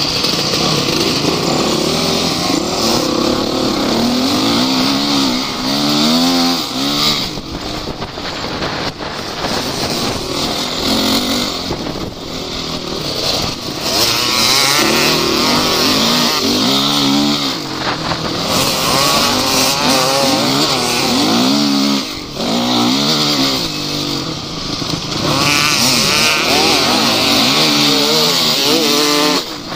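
Off-road vehicle's engine revving up and down over and over, its pitch rising and falling every few seconds, with a constant noisy rush and rattle as it works over rough ground.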